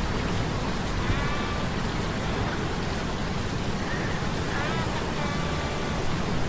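Steady rush of storm surf and rain, with faint whining metallic tones from humming gears that waver in pitch and come and go, about a second in and again around four to five seconds in.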